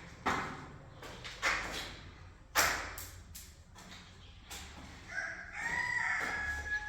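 Three sharp knocks over the first three seconds, the loudest a little past halfway through them, then a rooster crowing: one long call starting about five seconds in.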